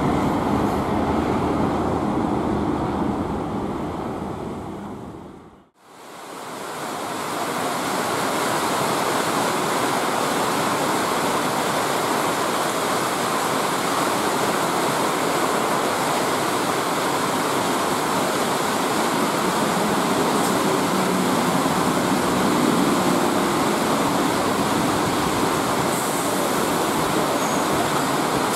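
Train noise fades out over the first few seconds. Then heavy rain pours down steadily as an EMU suburban electric train runs in through it.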